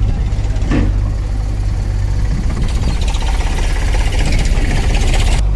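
Tractor diesel engine running steadily with a low hum. From about three seconds in, a loud hissing rattle rides over it and cuts off suddenly near the end.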